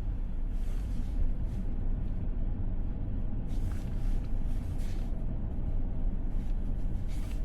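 Steady low road and tyre rumble of a Tesla Model S driving on a mountain highway, heard from inside the cabin, with no engine note since the car is electric.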